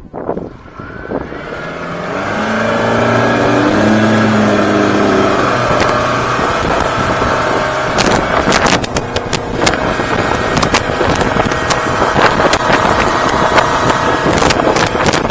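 Yamaha F200 four-stroke outboard throttling up, its pitch rising over the first few seconds, then running steadily at speed under the rush of wind and water. From about eight seconds in, a run of sharp knocks and buffets cuts through.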